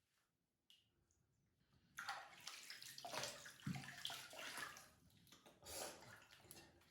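Water splashing and running in a bath while a cat is washed. It starts suddenly about two seconds in after a near-silent start, then surges and eases unevenly.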